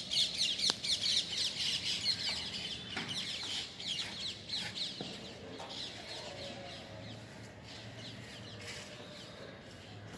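A flock of many birds chirping together in a dense chorus of quick, short falling chirps, loudest in the first few seconds and thinning out after.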